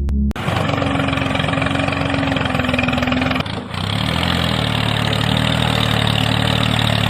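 Tractor engine running steadily at idle, cutting in suddenly. It dips briefly about three and a half seconds in, then runs on at a slightly changed pitch.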